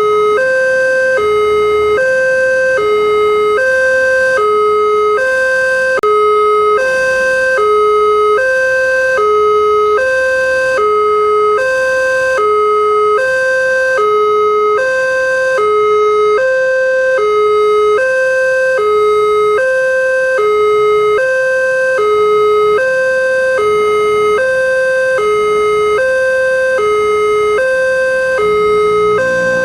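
Railway level-crossing warning alarm sounding: a loud electronic two-tone signal that alternates steadily between a higher and a lower note, each held just under a second, warning that a train is approaching.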